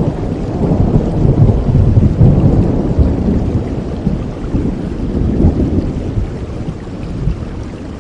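Thunder rumbling over steady rain, loudest in the first few seconds and then fading away.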